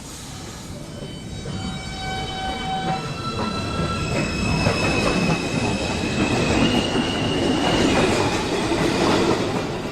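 Subway train pulling out of the station: its propulsion whine climbs in a series of stepped tones over the first few seconds, while the wheels rumble and clatter louder as it gathers speed.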